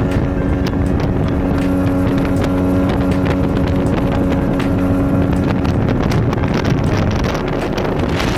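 Motorboat engine running at a steady pitch, with heavy wind noise buffeting the microphone.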